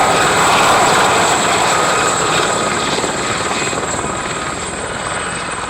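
Gazelle helicopters running on the ground: a steady rush of rotor and turbine noise with thin high whining tones, easing slightly in level over the last few seconds.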